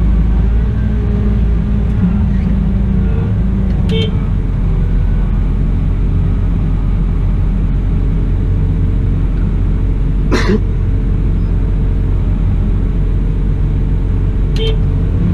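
Cat 972M XE wheel loader's diesel engine running steadily under work, a low continuous drone. A short click with a brief tone comes twice, about four seconds in and near the end, and a single sharp knock comes about two-thirds of the way through.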